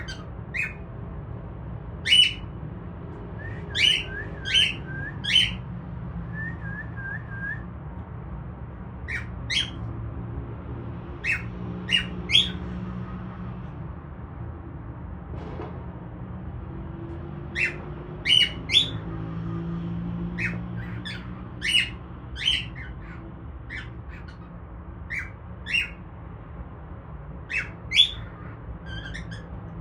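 Cockatiel giving short, sharp squawking calls, singly and in quick runs of two or three, with a softer run of four little chirps about six seconds in, over a low steady hum. The owner takes this lively calling as a sign that the bird is coming out of a depressed spell.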